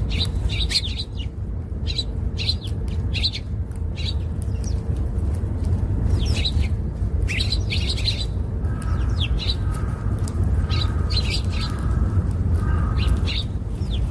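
Small birds chirping in quick clusters of short, high notes, with a lower repeated call joining from about nine seconds in, over a steady low rumble.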